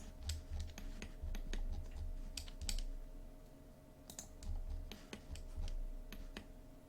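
Irregular clicking of a computer keyboard and mouse, about a dozen short clicks spread unevenly, over a faint steady hum.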